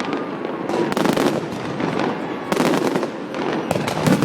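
Fireworks going off up close: rapid crackling and popping, with denser clusters of bangs about a second in, about two and a half seconds in and near the end.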